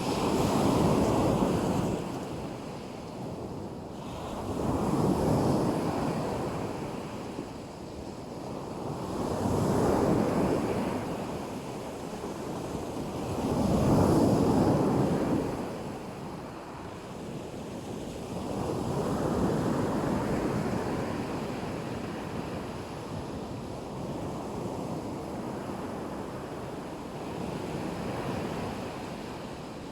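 Black Sea surf: waves breaking and washing onto the shore, each swell rising and falling about every four to five seconds, with the later swells softer.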